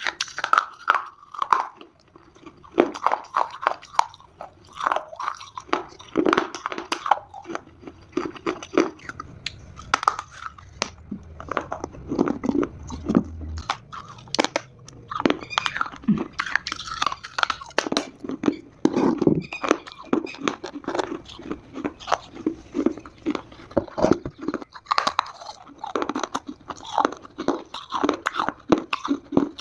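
Close-miked crunching and chewing of dry Multani mitti (fuller's earth clay), with a steady run of sharp, irregular bites and crumbling crunches.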